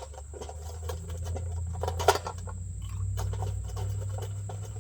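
Ice cubes being scooped and dropped into a cocktail shaker: scattered short clinks and clacks, with one louder clack about two seconds in, over a low steady hum.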